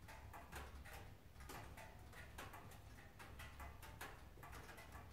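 Faint, irregular crackling and clicking from a wood fire burning in a stove, over a low steady hum.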